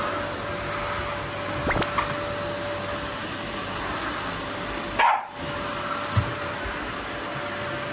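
Vacuum cleaner running steadily with a constant motor whine, while a dog makes short sounds at it, the loudest a bark about five seconds in.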